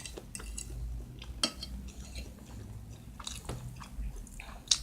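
A person eating close to the microphone: chewing, with scattered light clicks of a fork against a plate.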